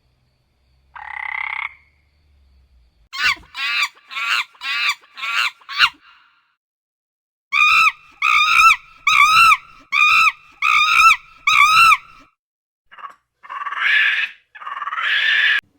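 An animal calling in short, repeated croak-like calls, about two a second. They come in runs: a single call, then six, then seven louder ones, then two rougher calls near the end.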